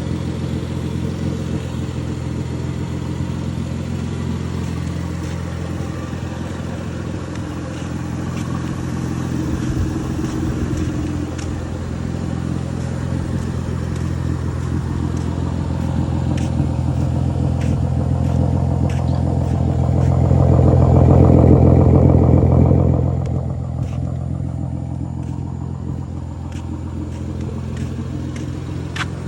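Car engine running through a straight-piped exhaust, a steady low drone that swells louder for a few seconds about two-thirds of the way through, then settles back.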